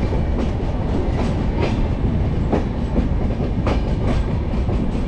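Passenger train running at speed after leaving a station: a steady heavy rumble with the wheels clacking irregularly over rail joints.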